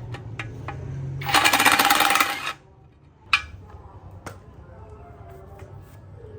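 A power tool runs in one loud rattling burst of just over a second, then stops. A sharp metallic click follows, then scattered light clicks of tools being handled.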